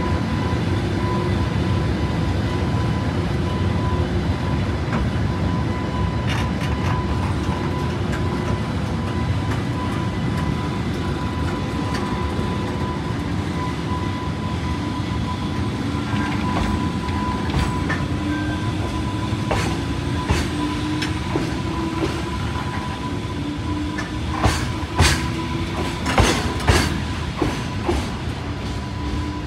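Container flat wagons of a freight train rolling past at low speed as the train pulls away: a steady rumble of wheels and running gear, with a low tone climbing slowly as it gathers speed. Near the end the wheels start hitting rail joints in sharp, quickening clacks.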